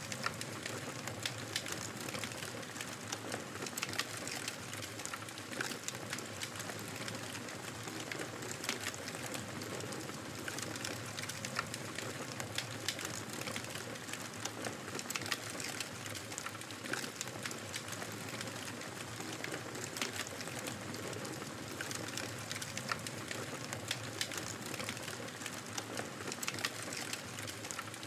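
Fire crackling in a fireplace: a steady hiss with frequent small, sharp pops and snaps.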